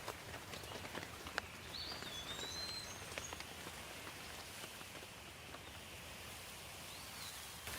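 Light rain falling steadily with scattered individual drops ticking close by. A bird whistles short rising-and-falling notes from about a second and a half in, and once more near the end.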